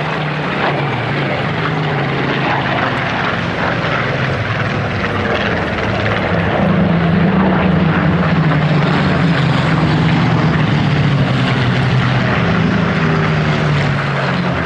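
Propeller-driven aircraft engine drone, steady and low, swelling louder about six and a half seconds in as the aircraft comes closer.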